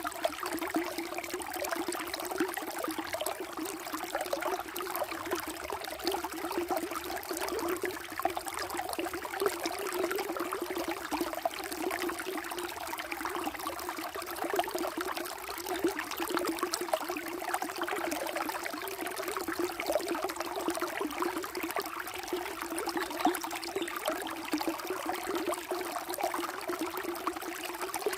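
Water flowing steadily in a small stream, a continuous trickling and babbling with no change over the stretch.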